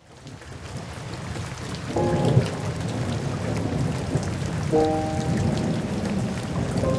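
Rain falling with a low rumble underneath, fading in at the start. Sustained music chords come in about two seconds in and again near five seconds.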